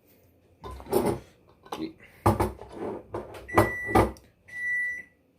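Jars and bottles knocking and clattering as they are moved about on fridge shelves. From about halfway in, the fridge's door-open alarm beeps, a steady high beep about half a second long, repeating about once a second: the door has been left open.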